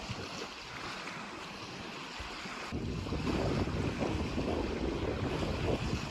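Wind blowing over open water with waves washing on the shore. From about three seconds in, wind buffets the microphone more strongly as a low rumble.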